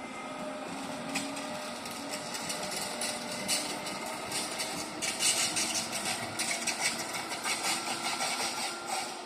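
A train passing on the Riviera line, its wheels clattering and clicking over the rails. The sound builds up and is loudest in the second half.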